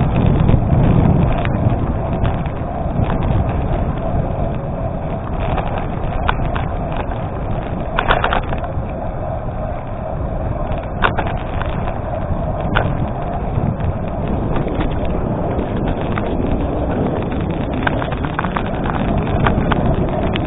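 Gravel bike rolling along an unpaved gravel road: steady tyre and riding noise with scattered clicks and rattles.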